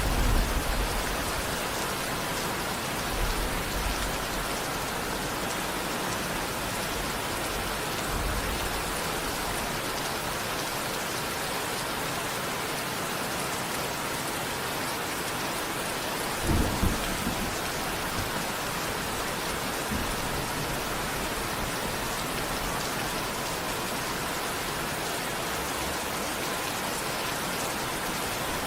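Steady rain falling, with low rumbles of thunder now and then, the strongest a short one a little past halfway.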